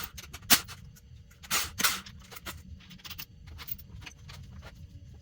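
Several sharp clicks and knocks of hand tools on a dirt bike's handlebar clamps as the handlebars are taken off to reach the steering stem nut. The loudest come right at the start, about half a second in and around two seconds in, with fainter ones after.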